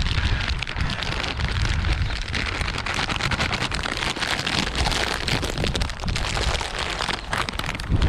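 Wind buffeting the microphone, with a dense crackling hiss over it.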